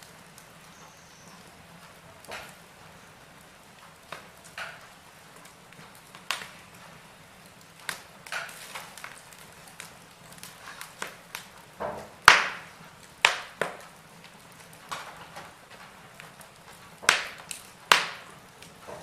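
Wood fire in a fireplace crackling: irregular sharp pops and snaps over a faint steady hiss, the loudest pop about twelve seconds in.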